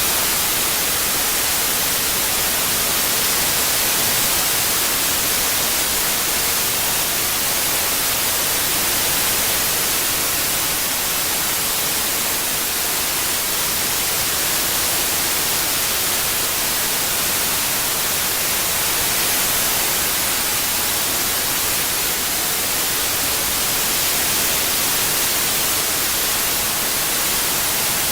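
Steady white noise, a constant even hiss that is strongest in the treble and has no tones or breaks.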